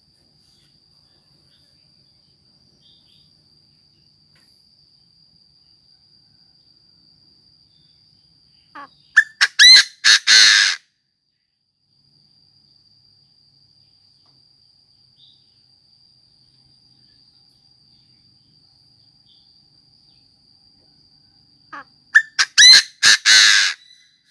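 Chinese francolin calling twice, about thirteen seconds apart. Each call is a few short lead-in notes rising into a loud run of harsh notes lasting about two seconds.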